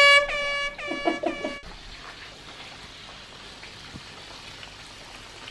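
A woman's voice holding a few short high sung notes, cut off suddenly about a second and a half in; then chicken wings frying in hot oil in a pot, a quiet steady sizzle.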